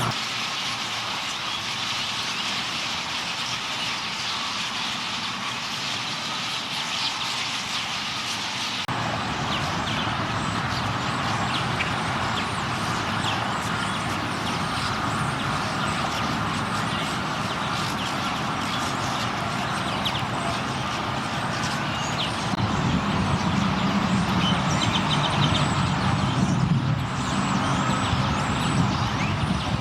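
Dense, continuous chattering of a huge flock of purple martins gathering at a roost, over the rumble of road traffic. The traffic joins about nine seconds in and grows louder over the last several seconds.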